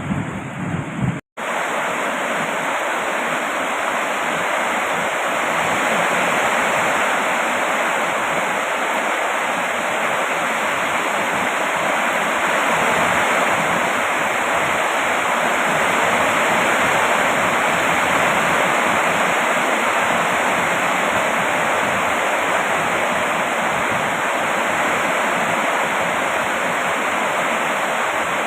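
Steady heavy rain: a dense, even hiss of falling water with no single drops standing out. About a second in, the sound drops out for an instant, where a windier stretch with a low rumble is cut to this steady rain.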